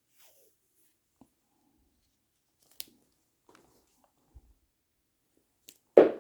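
Small plastic clicks and rustles from handling wiring connectors and switch housings, a few isolated ticks spread over several seconds. Near the end comes a sudden, much louder rattling clatter.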